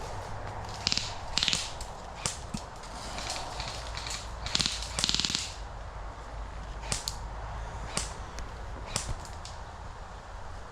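Airsoft guns firing: scattered single sharp shots, with a short rapid burst about halfway through.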